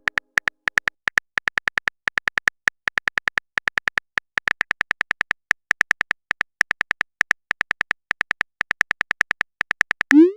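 Phone keyboard typing sound effect: rapid, short, high clicks in uneven runs of several per second, as a chat message is typed out. Near the end comes a quick rising swoosh, like a message being sent.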